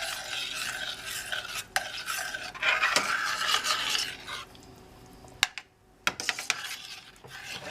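A spoon stirring and scraping thick turkey pot pie filling in a pan as the gravy thickens over the heat. The stirring eases off about halfway through, with a couple of sharp clicks, then picks up again.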